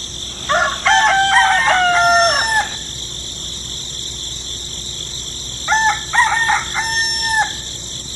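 A rooster crowing twice, each crow about two seconds long, the second about five seconds after the first.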